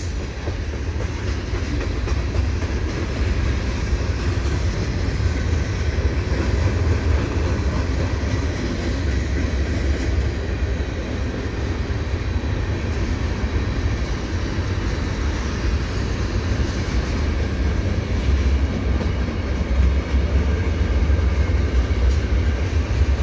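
CN mixed freight train's cars rolling past on the rails: a steady, heavy low rumble of steel wheels on track.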